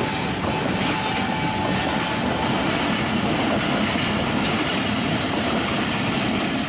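Pakistan Railways passenger coaches passing close by, their steel wheels running over the rails in a steady, even noise.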